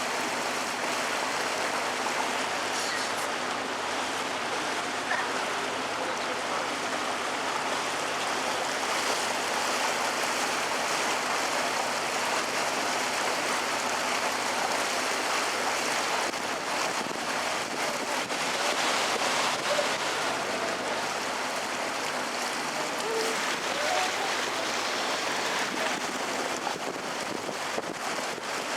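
Canal tour boat under way: a steady rush of water along the hull mixed with wind on the microphone.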